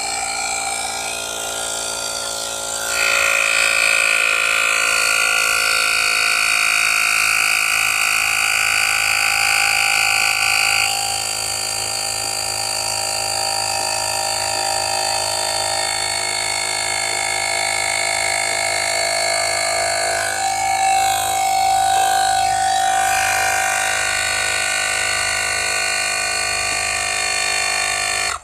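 Battery-powered mini air compressor running steadily with a motor-and-piston drone. It grows louder from about three seconds in, settles back down after about eleven seconds, and cuts off abruptly at the end.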